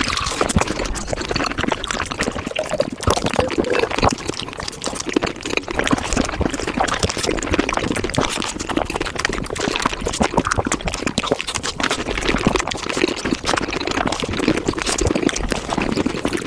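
Close-miked wet chewing and biting of strawberries, sped up about five times, so the juicy squelches, smacks and crunches run together into a dense, rapid stream of clicks.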